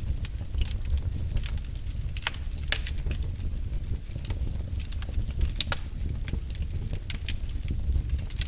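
Fire burning in a fireplace: irregular sharp crackles and pops, several a second and a few louder than the rest, over a steady low rumble.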